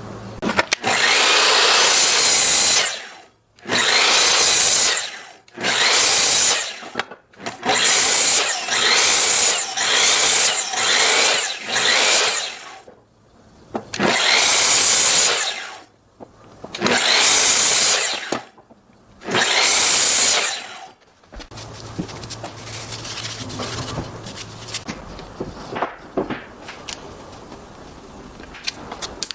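A woodworking power tool cutting or sanding wood in about ten bursts of one to two seconds each, with short pauses between. About two-thirds of the way through the bursts stop, leaving a quieter low hum with scattered light ticks.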